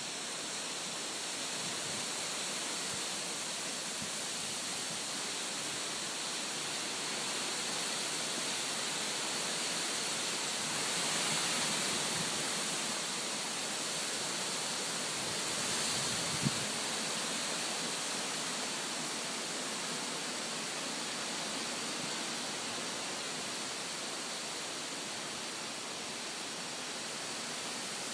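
Heavy thunderstorm winds blowing in a steady rushing hiss, swelling in gusts about 11 and 16 seconds in.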